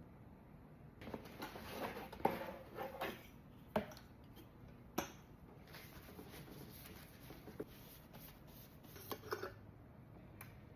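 Intermittent light clicks, knocks and clinks of small hard objects being handled, with the sharpest knocks about two to five seconds in and a couple more near the end.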